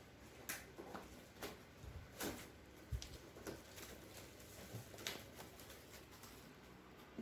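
Scattered faint clicks, knocks and rustles of objects being handled in a small room, irregular and a second or so apart.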